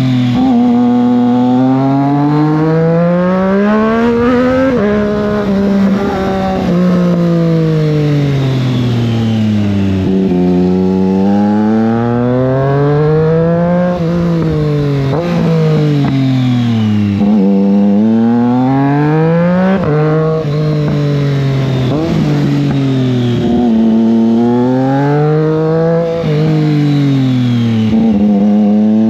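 Triumph Street Triple 660 S inline three-cylinder engine pulling hard up through the revs and then winding down on the overrun, over and over, as the bike accelerates out of one bend and slows into the next.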